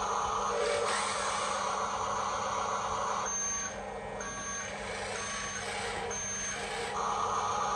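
RC dump truck's reversing beeper sounding four electronic beeps, about one a second, starting a few seconds in, over a steady running noise from the truck.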